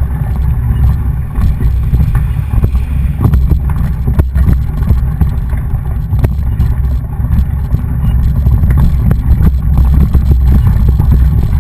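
Wind buffeting the microphone of a camera riding along on a mountain bike, a steady heavy rumble, with frequent short knocks and rattles from the bike going over rough ground.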